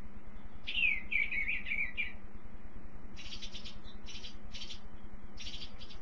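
Birds singing: a warbled phrase that falls in pitch about a second in, followed by several short, scratchy calls, over a steady low hum.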